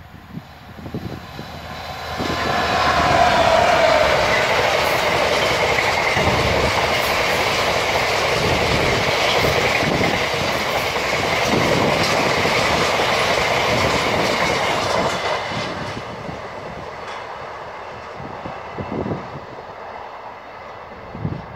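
Class 66 diesel-electric freight locomotive, its two-stroke V12 EMD engine running, passing close by about two seconds in with a falling tone as it goes past. A long train of hopper wagons follows, the wheels knocking over the rail joints, then fading away from about fifteen seconds.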